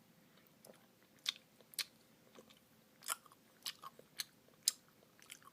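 Quiet close-up eating sounds from a mouthful of Oreo Dirt Pie Blizzard (soft serve with Oreo pieces and gummy worms): scattered short, sharp mouth smacks and chewing clicks.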